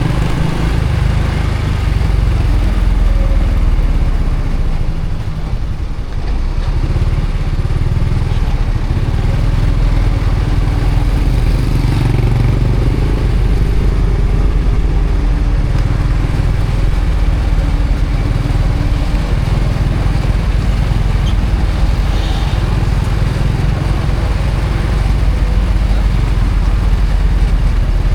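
Honda Supra X 125 FI's 125 cc single-cylinder four-stroke engine running steadily while the motorcycle is ridden, easing off briefly about six seconds in.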